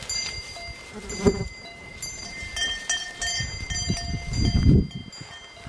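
Bells on grazing cows and oxen clanking and ringing on and off as the animals move, with a low rustling noise from them for a second or so near the end.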